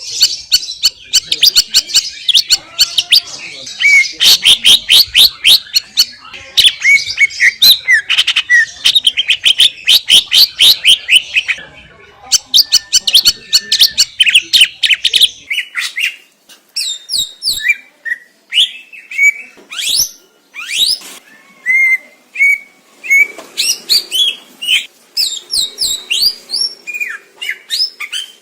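Cucak ijo (greater green leafbird) singing loudly. Rapid, dense chattering phrases of sweeping notes fill the first half, and about halfway through the song turns to a sparser run of sharp whistled notes and slurs.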